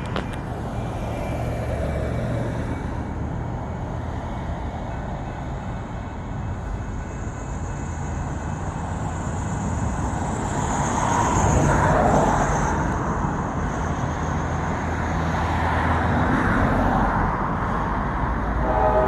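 A pair of EMD GP38-2 diesel locomotives approaching: a steady low engine rumble that swells about halfway through and again near the end.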